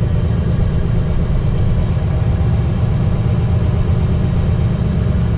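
A diesel truck's engine running steadily at idle while doing a diesel particulate filter regeneration, giving a constant deep drone.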